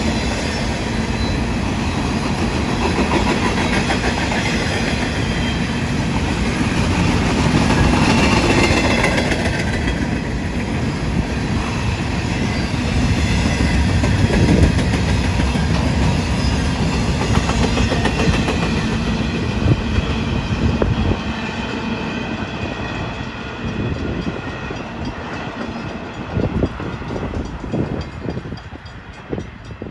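Cars of a Union Pacific intermodal freight train rolling past, a steady rumble of wheels on rail with clickety-clack over the joints. It fades over the last third, with a few separate wheel clicks near the end.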